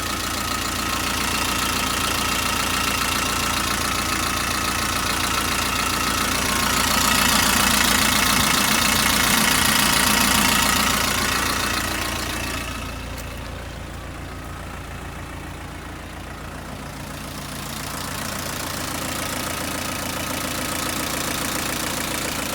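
Isuzu Elf truck's 4BC2 four-cylinder diesel engine running at idle with a steady diesel clatter. It grows louder for a few seconds around the middle, drops off, then comes back up toward the end.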